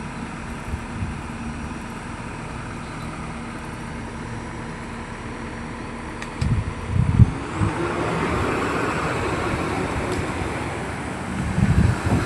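An engine running steadily with a low hum. About six and a half seconds in come a few heavy thumps, then a louder rushing noise that runs on to the end.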